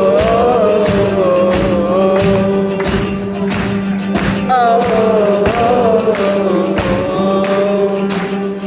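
Live rock band playing a song's intro: a steady drum beat under a gliding melody line in two long phrases.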